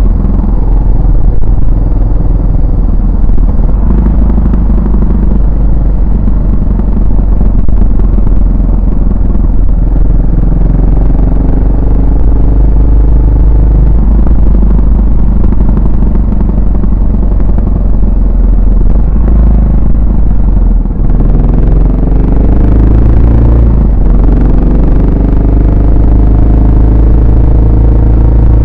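Yamaha SR400's air-cooled single-cylinder four-stroke engine running under way, its exhaust note steady at first. About 21 seconds in it drops off briefly, then rises in pitch as the bike accelerates, breaks for a gear change and rises again.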